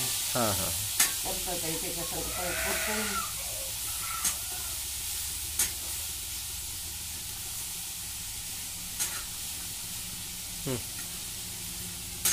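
Tomato, onion and spice mixture sizzling in a metal pan on a gas stove while a metal spoon stirs it. A few sharp clinks of the spoon against the pan come a second or more apart.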